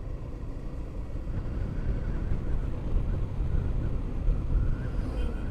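Riding a motorcycle: a steady rumble of wind on the helmet microphone mixed with engine and road noise, with a faint wavering whine above it.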